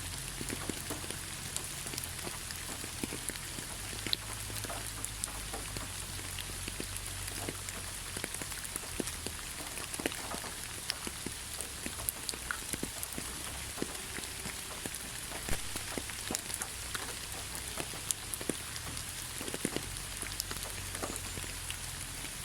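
Heavy rain falling steadily: a dense hiss full of many separate sharp drop impacts, over a low rumble.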